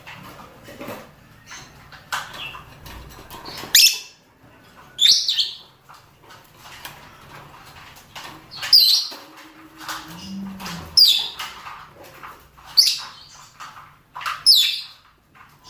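Lovebirds calling with short, sharp, shrill chirps, a loud one every second or two with softer chirps in between. These are the male and female calls used to prompt pairs to breed.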